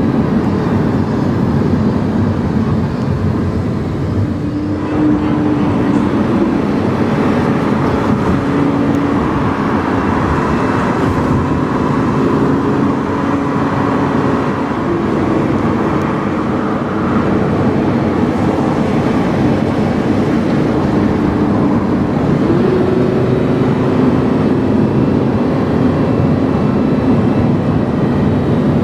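Lamborghini Huracán's V10 engine running through a PowerCraft aftermarket exhaust while driving. Its note steps up and down several times as the revs change.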